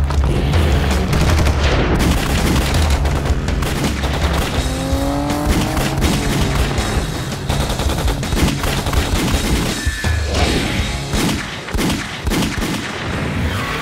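Rapid volleys of gunfire over loud, driving action music with a pulsing low beat, the sound of a staged shoot-out.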